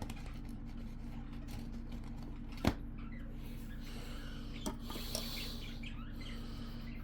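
Small hand-cleaning sounds on a laptop heatsink: a sharp click a little before halfway, a lighter click later, then scratchy rubbing, over a steady low hum.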